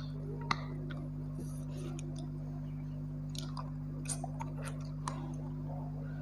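Close-up chewing of a handful of rice and mutton curry eaten by hand, with sharp mouth clicks and lip smacks, the loudest about half a second in and several more around three to five seconds in. A steady low hum runs underneath.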